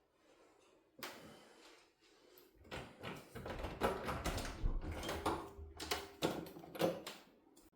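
A run of irregular knocks, clicks and rustling, starting about two and a half seconds in and stopping near the end.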